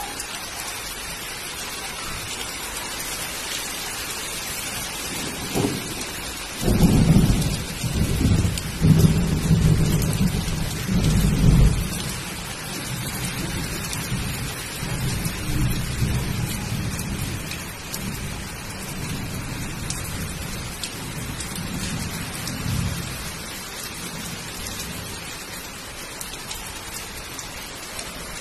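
Steady rain falling on a concrete rooftop and potted plants, an even hiss throughout. A long, low rumble rises about six seconds in, is loudest for the next five or six seconds, then rolls on more softly and fades out near the three-quarter mark.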